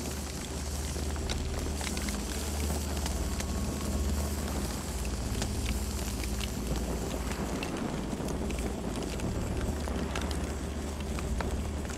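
Campfire burning: a steady low rumble with scattered crackles and small pops.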